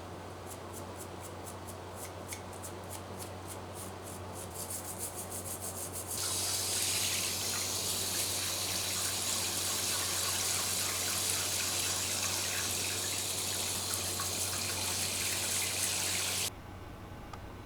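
A run of light ticks that quicken over the first few seconds. Then a tap runs in a steady hiss for about ten seconds, rinsing parts during paint stripping, and is shut off abruptly about a second before the end. A low steady hum sits underneath.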